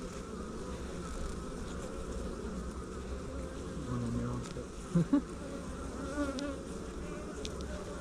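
Honeybees buzzing in a steady, wavering hum around an open hive. Two brief knocks sound close together about five seconds in.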